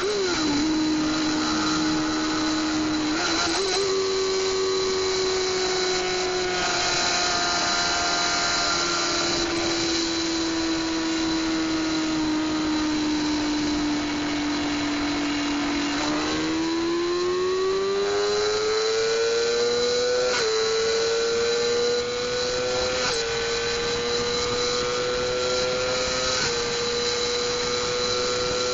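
600cc inline-four sport bike engine held at high revs, its top speed limited by the gearing. The steady high note sags slightly, then climbs steadily from about halfway through, with a few brief dips in pitch, over a constant rush of wind.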